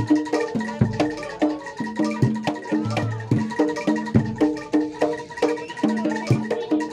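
Javanese gamelan music accompanying kuda lumping: struck bronze metallophones play a quick repeating pattern of notes over low drum strokes.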